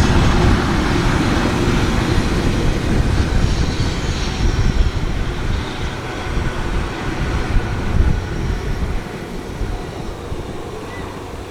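Locomotive-hauled train of passenger cars rolling past on the main line, its rumble fading as it moves away, under heavy wind buffeting on the microphone.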